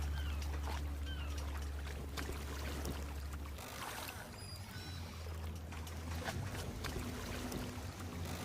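Low steady drone of a motorboat engine on a canal, easing off about three and a half seconds in, over ambient canal-side noise with scattered light knocks.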